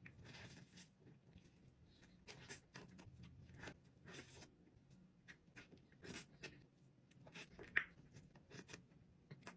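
Near silence, with a dozen faint, short clicks scattered through it; the loudest comes a little before the end.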